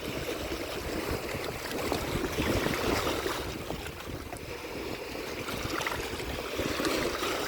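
Lake waves washing and lapping steadily against the shore, swelling and easing gently, with some wind rumble.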